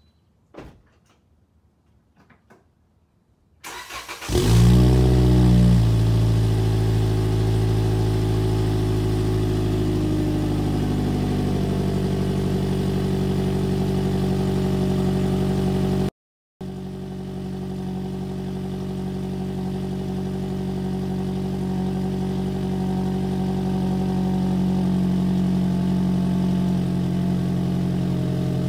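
Toyota Corolla iM's 1.8 L four-cylinder engine cranking briefly and starting about four seconds in, flaring up high, then settling over several seconds into a steady idle, heard at the exhaust tailpipe. The sound cuts out for a moment about midway.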